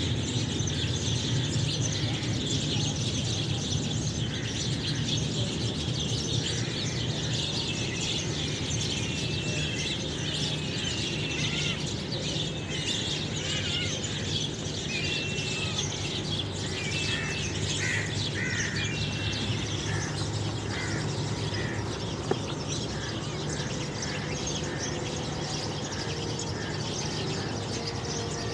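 Small birds chirping, with short calls clustering in the middle stretch, over a steady low hum of outdoor background noise.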